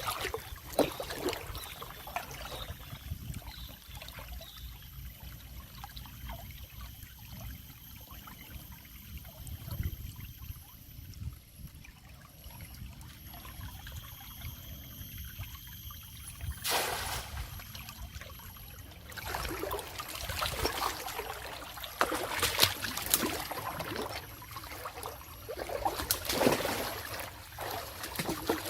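River water trickling and splashing around a small boat, with bursts of louder splashing in the second half.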